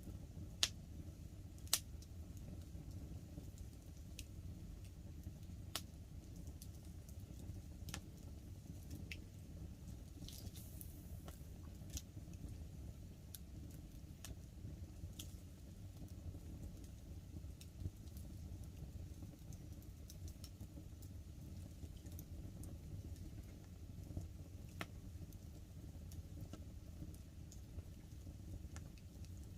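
Wood fire crackling, with sharp pops and snaps scattered throughout and the two loudest about a second or two in, over a low steady rush of flames and light rain on the tarp.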